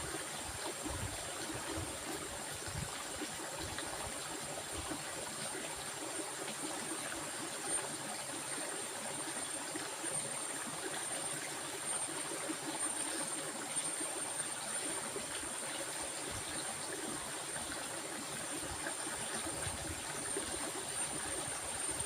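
Steady rushing of running water, like a stream, with a constant thin high-pitched whine above it.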